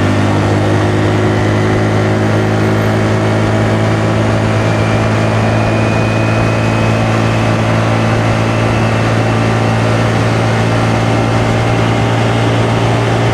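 Honda Navi's small air-cooled single-cylinder engine running at a steady speed under way, its even drone over a steady hiss of road and wind noise.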